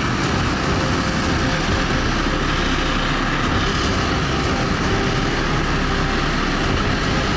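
Aircraft engine running steadily: a loud, even rush of noise with a faint steady whine through it.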